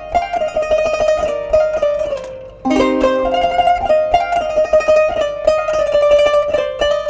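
Kanun, the Turkish plucked zither, playing a flowing melody of quickly repeated plucked notes; lower notes come in about two and a half seconds in, after a brief dip.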